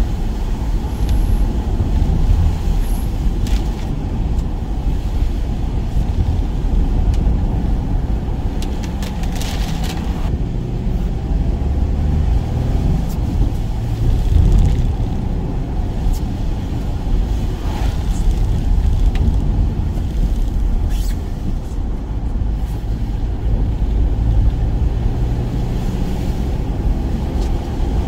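Steady low rumble of a van driving: engine and road noise with no marked change in pace.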